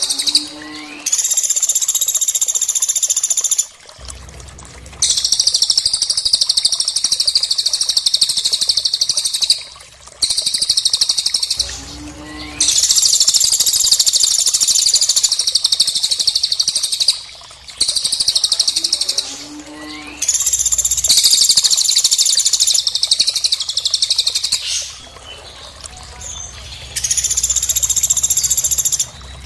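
Recorded songbird calls used as training audio for cage birds: dense, high-pitched chattering trills in phrases of several seconds, repeating the same pattern with brief gaps between.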